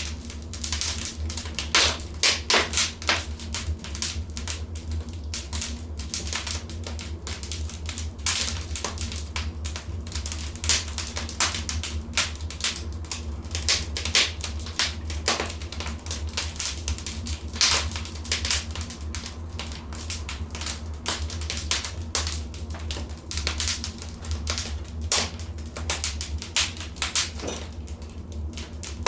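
Fireplace fire crackling, with many irregular sharp snaps and pops, some louder than others, over a steady low rumble.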